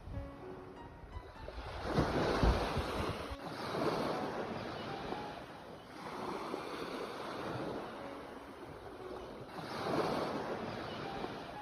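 Sea waves breaking and washing on the shore, the surf rising and falling in slow swells; the largest comes about two seconds in, and another about ten seconds in.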